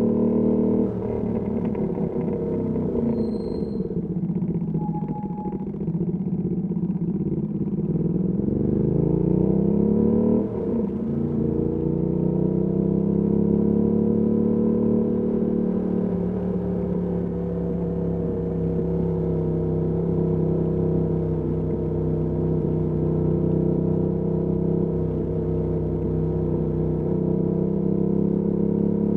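Ducati Panigale V2S V-twin through a Termignoni exhaust, ridden in traffic. The engine note drops off about a second in, then climbs as the throttle opens. Near ten seconds it dips suddenly as the bike shifts up, then runs at a steady cruise with small rises and falls in pitch.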